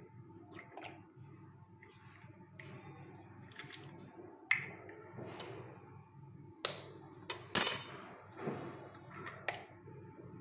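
Scattered sharp clinks and taps of dishes and kitchen utensils being handled, about seven distinct knocks, the loudest near the end.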